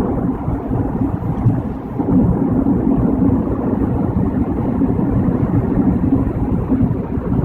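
Steady low rumble of tyres and engine from a car at highway speed, heard inside the cabin.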